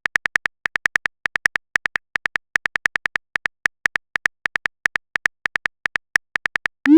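Phone keyboard tap sounds of a chat message being typed: a rapid, uneven run of short high clicks, several a second. A short rising swoop comes right at the end.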